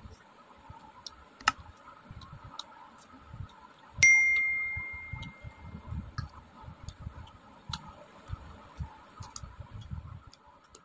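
Close-miked mouth sounds of eating rice by hand: soft chewing and smacking with faint clicks. About four seconds in, a single bright metallic ding rings out and fades over about two seconds.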